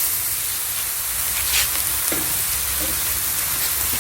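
Pork sizzling steadily as it fries in a hot pan, with a couple of faint knocks of a utensil against the pan partway through.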